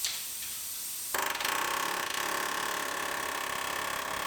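A drill starts up about a second in and runs steadily with an even whine, drilling out spot welds in car body sheet metal.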